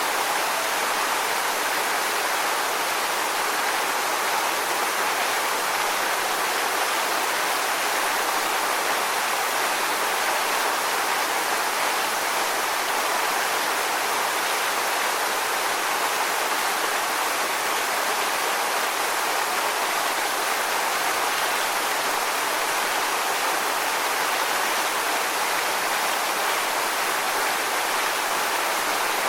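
Steady rushing water, an even hiss that holds the same level throughout with no rise and fall of breaking waves.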